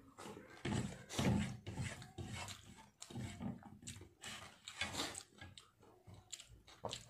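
Close-up chewing of a mouthful of rice and fish, in irregular bursts, with the fingers working rice on a plate.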